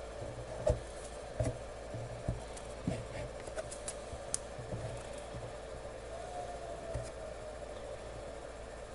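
Faint, scattered clicks and light taps from small tools or parts being handled at a soldering bench, about seven in all, over a steady electrical hum.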